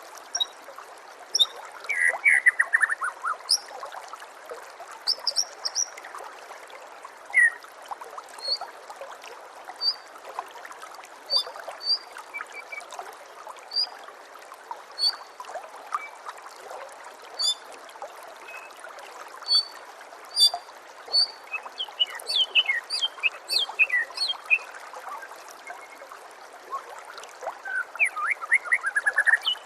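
White-rumped shama (murai batu) singing: scattered short, high chirps and whistles, with quick falling trilled phrases about two seconds in and again near the end, over a steady trickle of running water.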